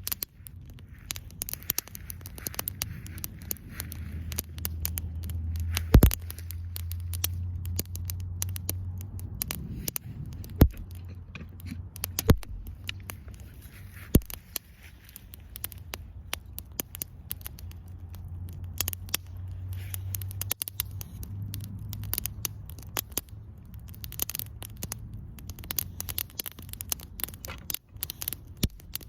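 Wood campfire crackling, with frequent sharp pops and a low rumble that swells and fades twice.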